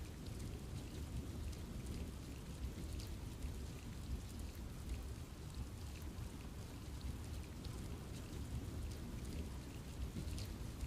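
Steady rain falling on trees, with a constant low rumble beneath and many separate drops ticking close by.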